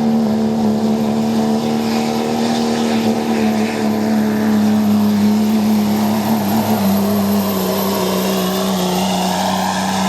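Pulling truck's engine running flat out under load as it drags the weight sled down the track, a steady high-revving drone that sags slightly lower in pitch about seven seconds in.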